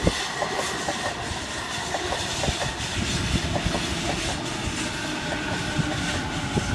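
Sydney Trains Waratah double-deck electric train moving along the platform, its wheels clicking and knocking irregularly over rail joints over a steady rushing noise. A faint steady whine comes in about five seconds in.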